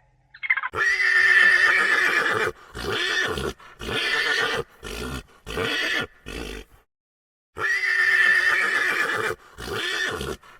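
Horse whinnying. A long call is followed by a run of shorter pulses, then, after a brief pause, a second long call and a short one.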